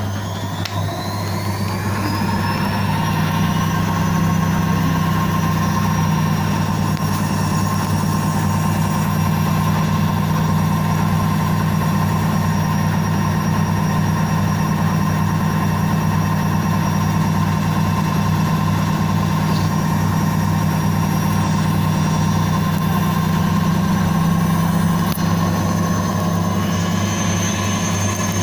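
Indesit IWSC5085 washing machine spinning up: the motor's whine rises for the first few seconds, then holds steady at spin speed over a low hum.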